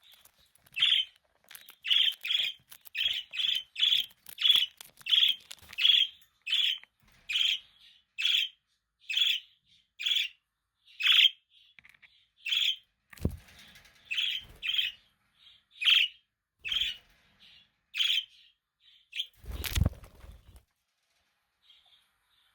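Budgerigar chirping: a long series of short, bright chirps, about one to two a second, that stops a few seconds before the end. Near the end comes one loud, low thud with a brief rustle.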